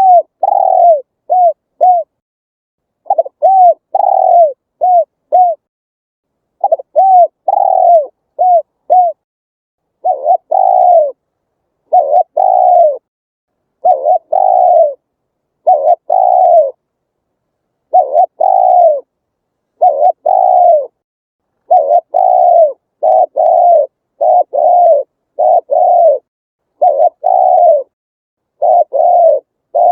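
Spotted dove cooing in repeated phrases, each coo a low note that dips in pitch. Early on the phrases mix short and longer notes. Later the coos come longer and more evenly, about one a second.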